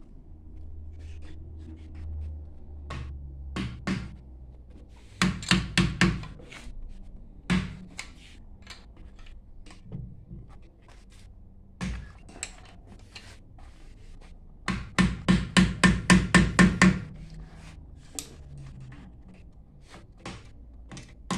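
Hammer blows on a water booster pump being taken apart: a quick run of about five strikes a few seconds in, a couple of single knocks, then a faster run of about ten strikes later on.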